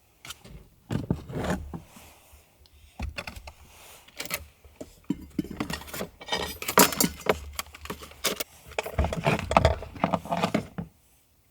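Close handling of small hard objects: a run of clicks, knocks, rattles and rustling scrapes, busiest near the middle and again near the end, then stopping short.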